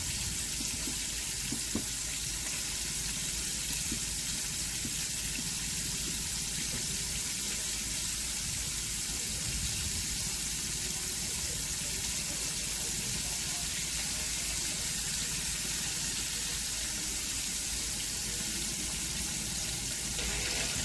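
Flour-coated chicken legs frying in hot oil, a steady, even sizzle.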